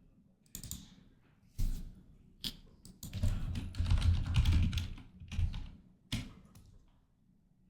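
Typing on a computer keyboard in short bursts of key clicks, densest in the middle and stopping about a second before the end, as a ticker is entered to pull up a stock screen.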